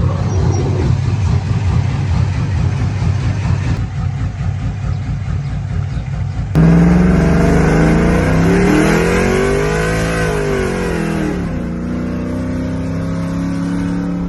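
Cammed 5.3-litre V8 of a Chevrolet Silverado idling with a choppy, uneven lope. About six and a half seconds in, it turns suddenly louder as the engine is revved, rising to a peak about ten seconds in and then falling back toward idle.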